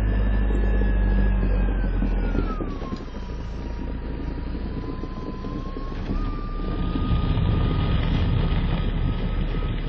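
Massey Ferguson 5455 tractor's turbo diesel running hard while snowblowing, with a steady high turbo whistle over the engine. A few seconds in, the whistle slides down in pitch and the engine quietens. Near the middle, the whistle picks up a little and the engine gets louder again.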